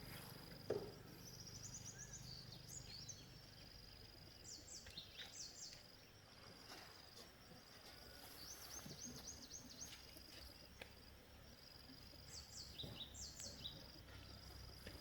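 Faint outdoor ambience: a steady high-pitched tone with clusters of quick high chirps every second or two, the calls of small animals. A single short knock comes a little under a second in.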